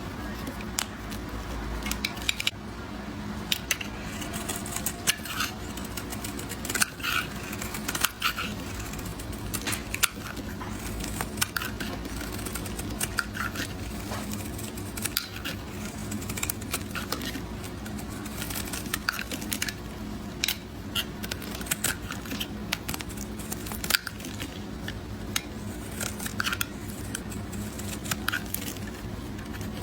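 Knife cutting dry soap into small cubes, a continual run of crisp clicks and crunches as the blade presses through, several a second, over a faint steady low hum.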